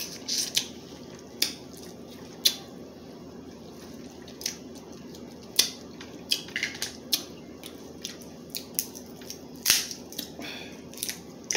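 Crab legs being eaten: many sharp, irregular clicks and cracks, spaced a fraction of a second to about two seconds apart, over a steady low hum.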